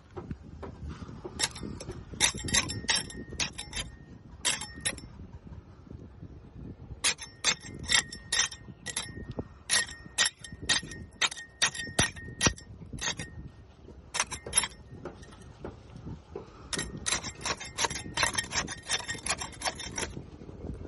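A scraper chipping and scraping barnacles off a boat hull: runs of rapid, sharp clicks and scrapes a few seconds long, broken by short pauses.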